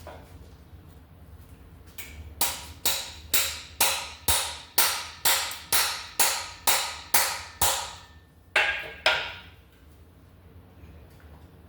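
Hammer blows on metal during exhaust-manifold removal from an LS engine: a steady run of about a dozen strikes, a little over two a second, then a short pause and two more.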